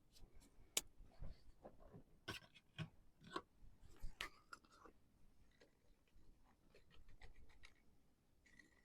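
Faint scattered clicks and light scraping, with one sharper click about a second in and a brief flurry of ticks and scrapes in the middle.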